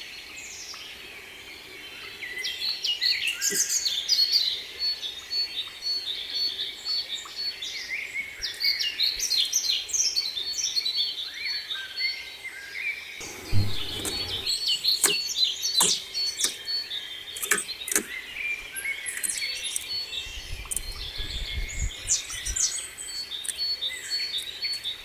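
Several small songbirds chirping and singing at once, with quick high warbled phrases and a short high note repeated over and over. A few sharp clicks come about halfway through, and a low rumble near the end.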